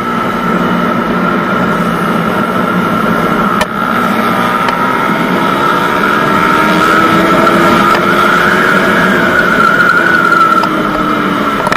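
Suzuki Satria FU's single-cylinder four-stroke engine running hard while riding at speed, with wind rushing over the camera microphone. The engine note climbs slightly past the middle and eases off near the end.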